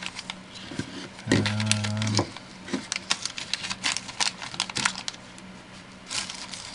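Hard resin model truck bodies being handled and set down, giving a string of light clicks and knocks. A short steady hum, the loudest sound, comes about a second in and lasts just under a second.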